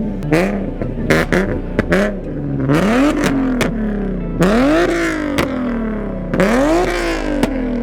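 A car engine revved hard about six times in a row, the pitch rising sharply and falling back each time, with the last two revs the longest, and a few sharp cracks between the revs.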